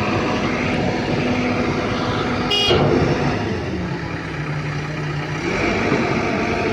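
Heavy diesel machinery engine running steadily, its pitch dropping for a couple of seconds past the middle and then coming back up, with a brief high-pitched toot about two and a half seconds in.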